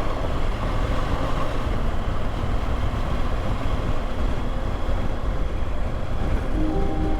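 Motorcycle on the move: a steady rushing noise of wind and engine on the rider's microphone. Background music comes back in near the end.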